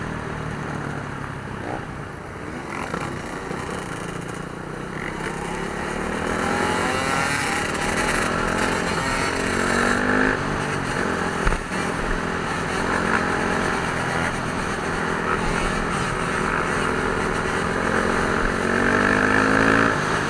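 Dirt bike engines revving up and down again and again, pitch rising and falling as the riders work the throttles, with a brief sharp bang just past halfway.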